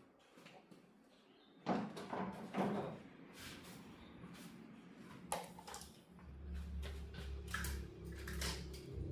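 Knocks, rustles and sharp clicks of parts and tools being handled during the repair of a disassembled LED TV, with the loudest knocks about two seconds in. A steady low hum comes in about six seconds in.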